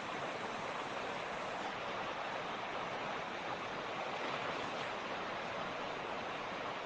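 Creek water flowing over stones, a steady rushing and babbling.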